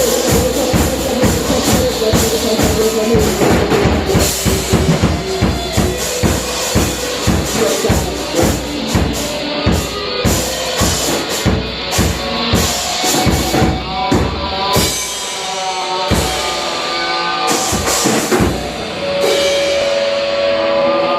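Rock band playing, led by a fast, driving drum kit beat with bass drum and snare hits. The drumming thins out in the last few seconds as held instrument notes come in.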